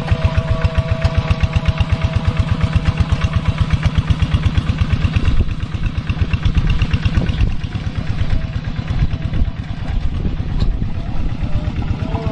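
Kubota tractor's diesel engine running steadily under load while ploughing a wet rice paddy, with an even, rapid pulsing beat.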